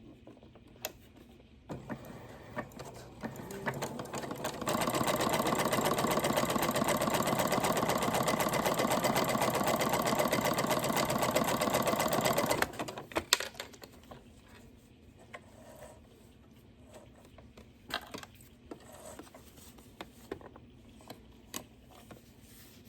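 Janome Memory Craft 9000 sewing machine sewing a zigzag stitch along the edge of a single layer of thin cotton broadcloth. It runs quietly at first, then fast and steady for about eight seconds before stopping abruptly. Scattered light clicks follow.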